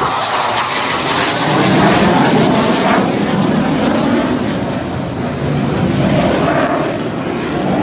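Jet aircraft flying past: a loud, steady rushing engine noise whose highest hiss drops away about three seconds in.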